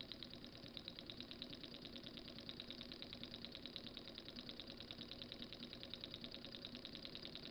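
Small Stirling engine heated by a tea candle, running at a slow, steady speed with a fast, even mechanical ticking that repeats several times a second.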